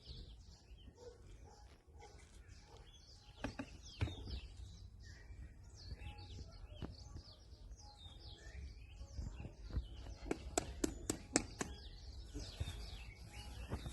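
Small birds chirping over and over in quick, high, downward-sweeping notes, over a low background hum. A quick run of sharp clicks comes about ten to twelve seconds in.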